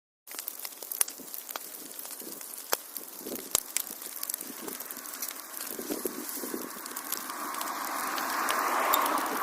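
Fireplace fire crackling, with frequent sharp pops. It starts abruptly after a moment of silence, and a rushing hiss of flames swells toward the end.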